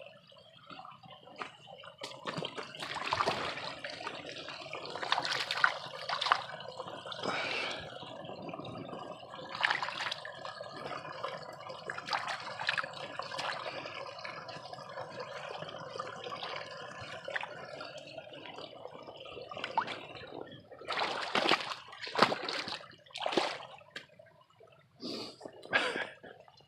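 Water at a small waterfall and swimming pool, rushing and splashing steadily, with scattered sharper splashes and a run of louder ones near the end.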